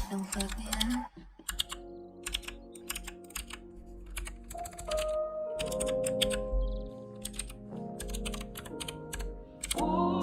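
Typing on a computer keyboard, a run of quick key clicks, over soft background music with held notes.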